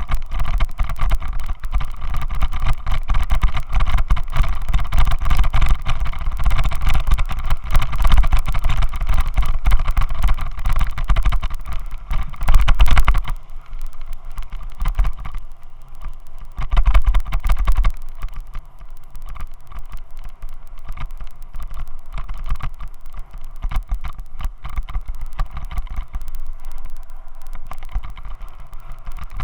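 Heavy rumbling noise and vibration picked up by a Xiaomi Yi action camera on a helmet mount, with a vehicle engine running under it. The noise comes from the mount passing vibration into the camera. It is loudest for the first half, drops off about halfway through, and swells briefly a few seconds later.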